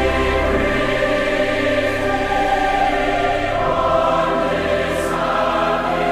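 A choir singing long held chords, moving to a new chord about three and a half seconds in.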